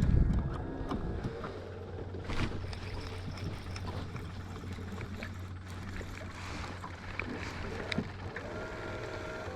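Small fishing boat sitting on the water: a steady low hum with scattered light knocks and clicks against the hull.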